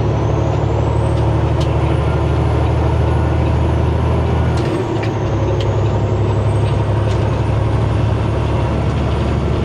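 Semi truck's diesel engine pulling under load, with a high whine rising in pitch. About halfway through the whine drops and the engine note changes at a gear shift, then the whine climbs again as the truck picks up speed.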